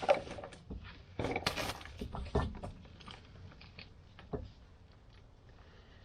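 Metal brake parts being handled and lined up on a car's rear axle: scrapes and clinks through the first two and a half seconds, then a couple of light knocks.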